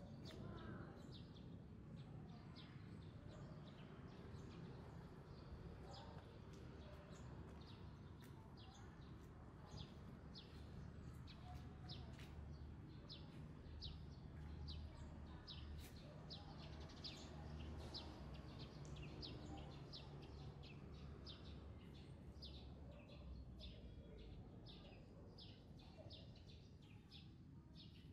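A small bird chirping over and over, short high chirps at a steady pace of about one to two a second, over a faint low rumble of background noise.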